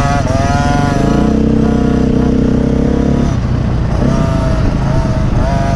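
Dirt bike engines running and revving on a motocross track, the pitch rising and falling with the throttle. A second, deeper engine note joins about a second in and drops away about three seconds in, typical of the big four-stroke bikes riding nearby.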